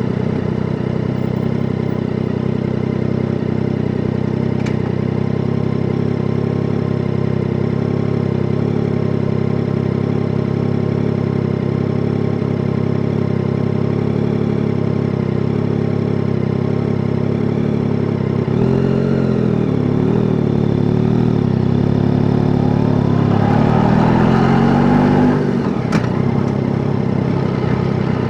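Yamaha Tracer 9 GT's three-cylinder engine idling steadily, then rising in pitch twice in the last third as the bike revs up and accelerates.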